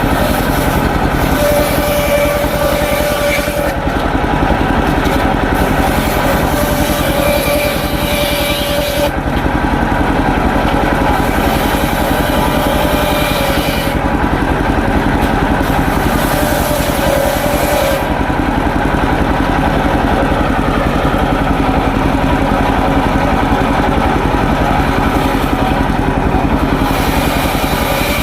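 Homemade engine-driven circular saw running steadily, its engine pulsing fast and even. Stretches of added hiss and a held whine come and go as the blade cuts through waru wood.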